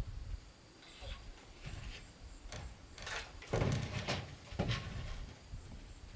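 Irregular handling noises: scattered knocks, scrapes and rustles, loudest about three and a half seconds in.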